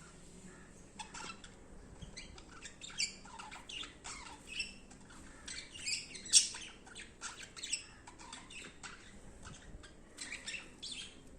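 Budgerigar chatter: a steady run of short, rapid chirps and squawks, the loudest call about six seconds in.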